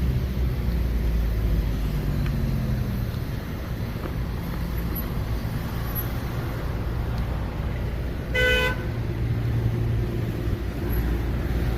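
Road traffic with car engines running, one vehicle's engine note shifting in pitch near the start. A single short car horn toot comes about eight seconds in.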